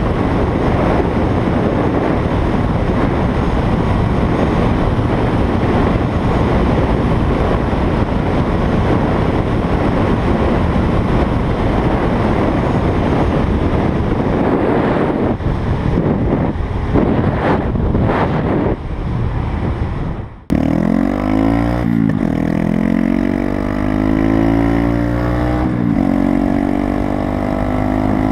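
Heavy wind rush over the microphone from a motorcycle moving at speed. About twenty seconds in it cuts off suddenly, and the Honda Grom's small single-cylinder engine is then heard plainly through its aftermarket Zoom exhaust, its pitch falling and rising as the revs change.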